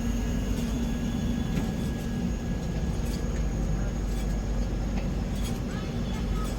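Train running, heard from on board: a steady low rumble with a humming tone and a few scattered sharp clicks.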